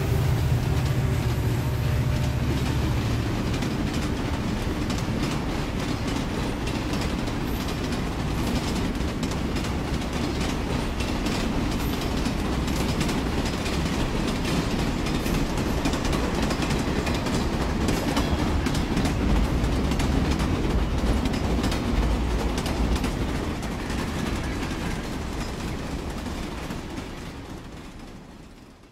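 Train running on the track: a steady rumble with many quick clicks of the wheels over the rails, fading out near the end.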